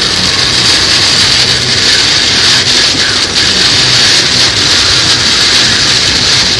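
Heavy rain pelting the car and tyres hissing through water on the road, heard inside the cabin as a loud, steady wash. A car engine runs evenly underneath at highway speed.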